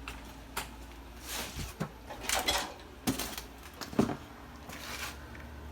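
A few short, light knocks and scrapes spaced a second or so apart, over a faint steady low hum.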